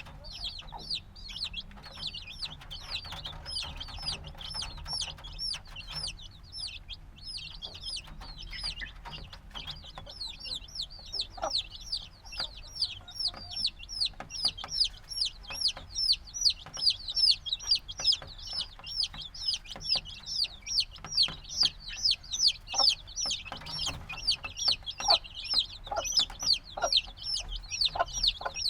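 A brood of chicks a few days old peeping continuously, many high-pitched chirps overlapping, growing denser and louder from about halfway through.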